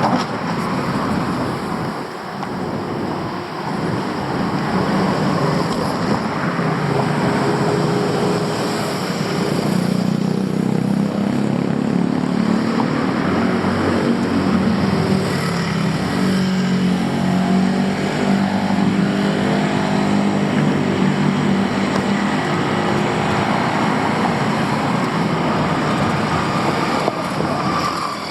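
Street traffic noise, with a motor vehicle engine running close by, its pitch rising and falling in the middle of the stretch.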